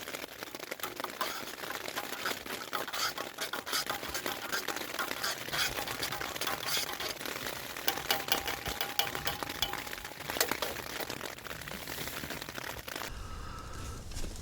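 A spoon scraping and clicking in a crinkly food pouch, with the packaging rustling, as a rehydrated chicken tikka with rice is eaten. The sounds are irregular, with sharper clicks about 8 and 10 seconds in, and give way to a low steady rumble near the end.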